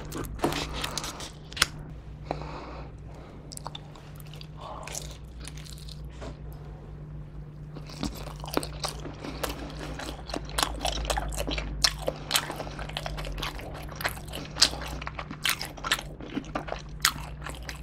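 Kitchen scissors snipping through pizza crust in the first couple of seconds, then close-miked biting and chewing of a pepperoni cheese pizza slice, with many small crunching clicks from about eight seconds in.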